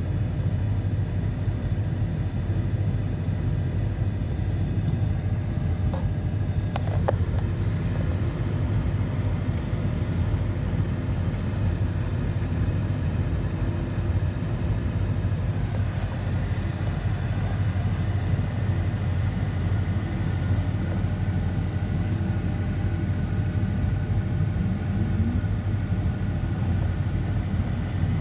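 Steady low rumble of a car running, with a couple of brief clicks about seven seconds in.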